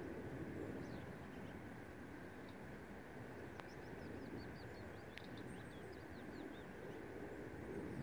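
Faint outdoor ambience of small birds chirping: short, high chirps scattered through, with a quick run of them in the middle, over a steady low background rumble.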